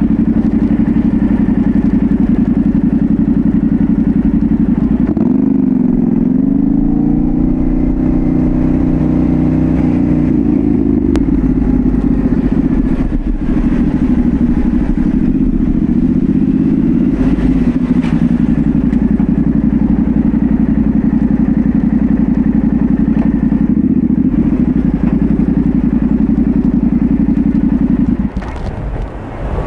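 Yamaha Ténéré 700's 689 cc parallel-twin engine, breathing through a full Dominator GP1 exhaust, running steadily under way. Its pitch dips and climbs again about five seconds in and eases down around eighteen seconds in. The sound drops away abruptly near the end.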